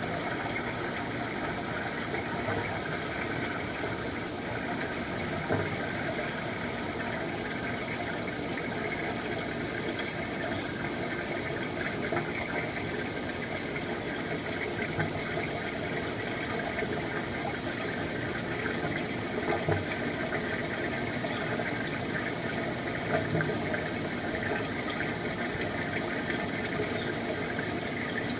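An engine running steadily under an even hiss of noise, with a few faint knocks.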